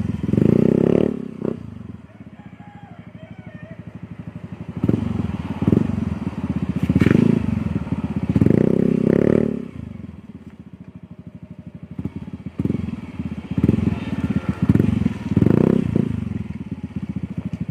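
Motorcycle fitted with an R8 'chicken pipe' aftermarket exhaust, revved several times and dropping back to idle between the revs.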